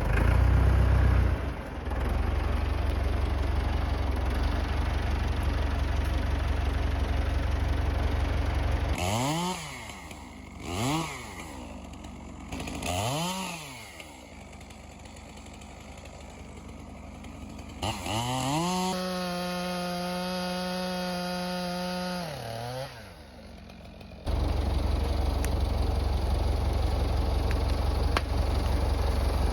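Tractor engine idling with a steady low rumble; then a Stihl MS 462 two-stroke chainsaw blipped up three times and held at high revs for about four seconds before dropping off; then the tractor idling again.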